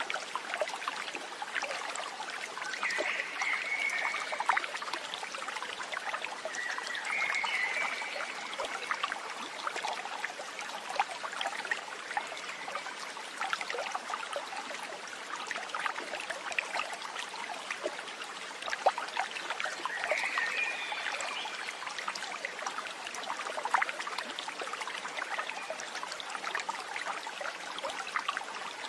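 Running water of a stream trickling steadily, with three short high chirps over it.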